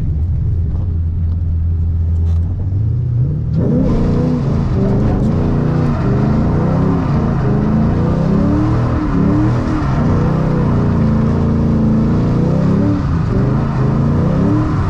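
Ford Mustang GT's 4.6-litre three-valve V8 heard from inside the cabin, first running low and steady. About three and a half seconds in, the throttle opens and the engine revs up, its pitch rising and falling as the car is driven under power on wet road.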